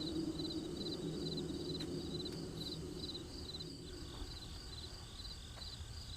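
Crickets chirping in an even, repeating rhythm of about three chirps a second, over a low steady drone that fades about halfway through.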